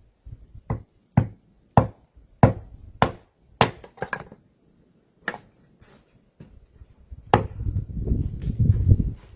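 Wood being chopped with a blade: a run of sharp chopping strikes about every half second, then a denser low rumble of knocks from about seven seconds in.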